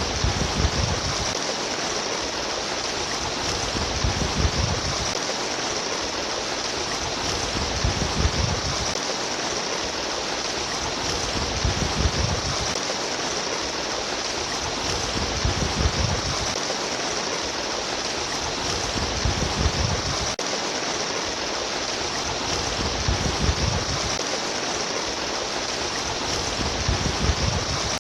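Stream water babbling steadily, with a low surge about every four seconds.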